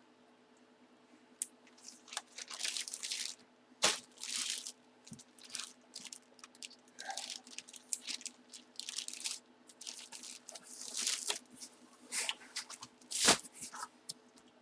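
Packaging being handled: irregular rustling and crinkling, with a sharp knock about four seconds in and another near the end.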